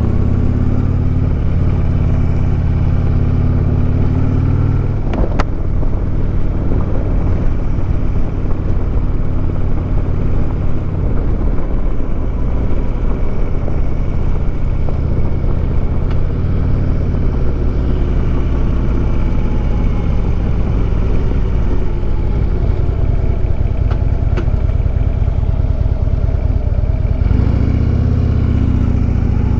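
Harley-Davidson Road King's V-twin engine idling steadily, then pulling away and accelerating through the gears about five seconds in, with rising and falling pitch as it shifts. About 27 seconds in it settles back to a steady idle.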